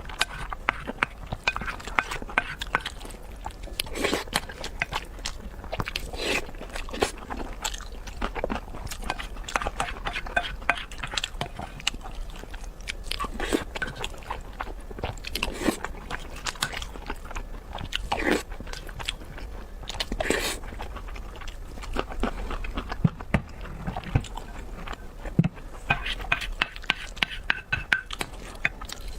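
A person chewing and biting food, with many short, sharp mouth clicks and crunches throughout.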